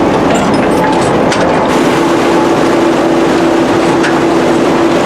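Large vintage power shovel running: a heavy, steady machinery drone with scattered clanks, and a steady hum that comes in about two seconds in.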